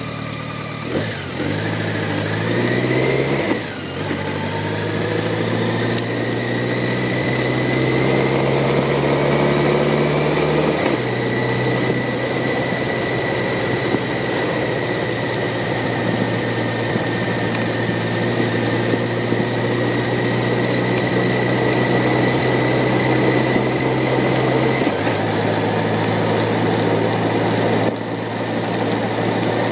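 BMW K1100LT motorcycle's inline-four engine pulling away, its note rising, then changing up with steps in the engine note about 4 and 11 seconds in and running steadily at cruise, with a faint steady whine above it. The engine note steps again near the end.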